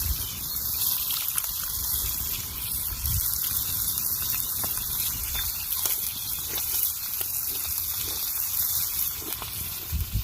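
Steady rush of water with faint scattered ticks and drips.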